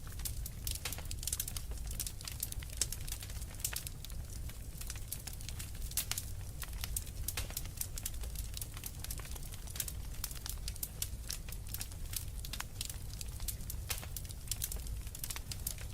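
Wood fire crackling with a dense, irregular run of small pops and snaps, over a low steady rumble of storm wind.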